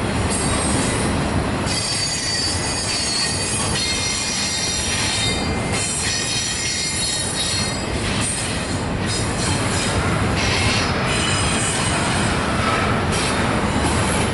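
Double-stack container train of freight well cars rolling past, a steady rumble of wheels on rail with high-pitched wheel squeals that come and go.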